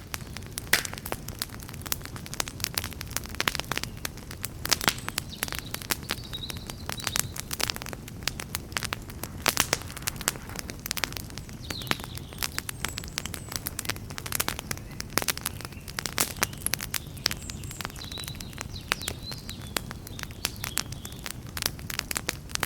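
Campfire burning with dense, irregular crackling and sharp pops of the wood over a steady low rumble of the flames.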